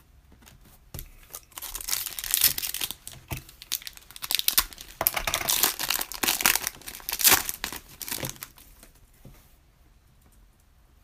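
Foil wrapper of a Panini Prizm trading-card pack being torn open and crinkled: several seconds of crackling rips and crumpling.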